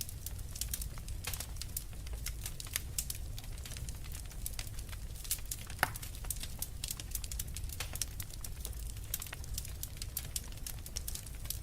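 Wood fire burning in a fireplace: a steady low rumble of the flames with many irregular sharp crackles and pops from the burning logs, one louder pop about six seconds in.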